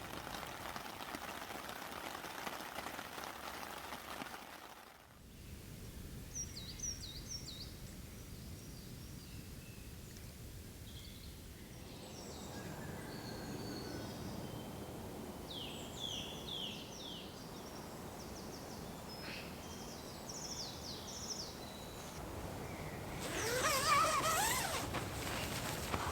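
Steady patter of rain for the first few seconds, then it cuts away to quiet woodland where small birds chirp in quick series of short falling notes. Near the end a louder stretch with a few rising sweeping tones.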